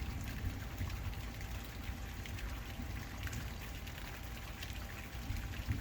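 Steady rain falling during a storm, a continuous patter of many small drops, over a low rumble.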